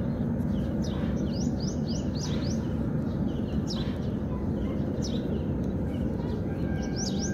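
Small birds chirping in quick, high runs of four or five notes, with single chirps between, over a steady low background noise.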